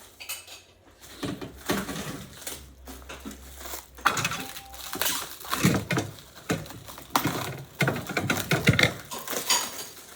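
Irregular clinks, knocks and rattles of metal printer parts being handled and set down.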